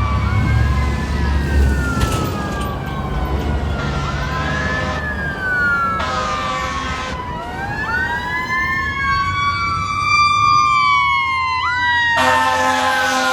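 Fire engine on an emergency run: its Federal Q2B mechanical siren winding up and coasting down in repeated rising and falling wails, with air-horn blasts about halfway through and again near the end, over the truck's engine rumble.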